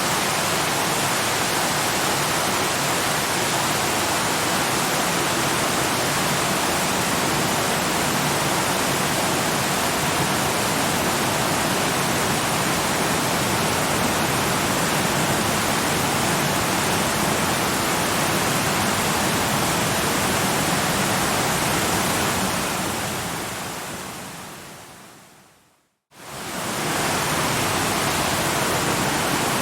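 Steady rushing of a waterfall, even and unbroken; about three-quarters of the way through it fades out over a few seconds to a moment of silence, then quickly fades back in.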